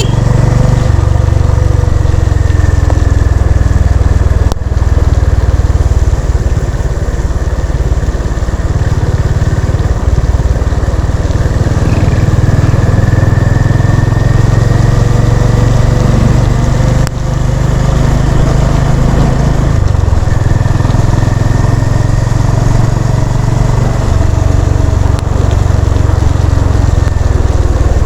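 Honda CB350 RS's single-cylinder engine running steadily on the move, with two brief drops in loudness, about five seconds and about seventeen seconds in.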